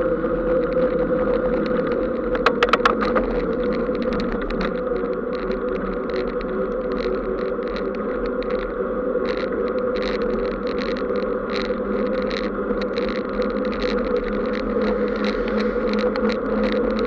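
Steady road and wind noise of a vehicle moving along a wet road, with a steady hum underneath. A quick cluster of sharp clicks comes early, and from about halfway on there are irregular sharp ticks, several a second.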